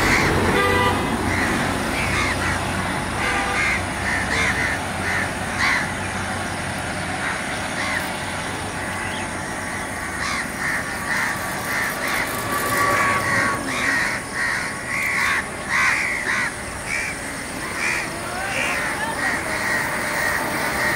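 Birds calling over and over in short, repeated calls, some overlapping, above a steady background noise.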